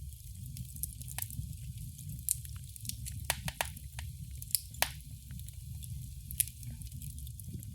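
Wood fire in a fireplace crackling: irregular sharp pops and snaps, a few louder ones near the middle, over a steady low rumble of the flames.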